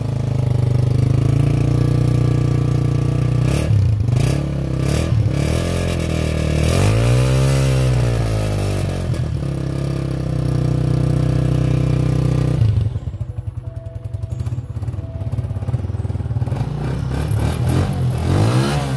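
Honda CG125's single-cylinder four-stroke engine running after a cold start without choke, after two days standing. It is blipped a couple of times, then revved once in a longer rise and fall about a third of the way in. About two-thirds through the sound suddenly drops to a quieter idle, with another short rev near the end.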